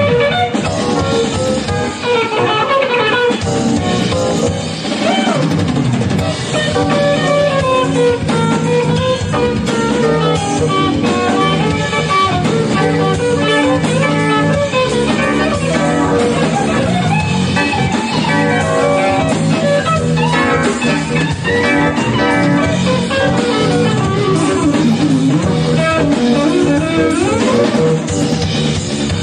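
Live instrumental band music: a guitar stands out over a drum kit and bass, in a blues-jazz style.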